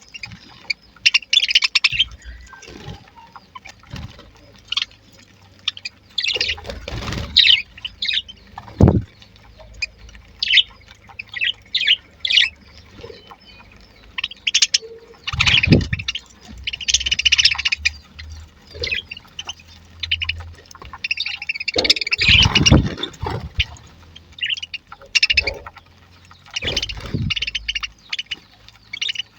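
A colony of budgerigars chirping and chattering, many short high calls overlapping without a break, with a few dull thumps among them.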